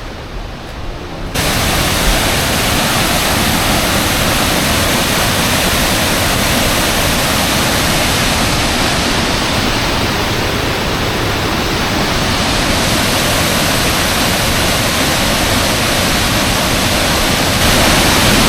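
Sgwd yr Eira waterfall: a loud, steady rush of falling water that cuts in abruptly about a second in.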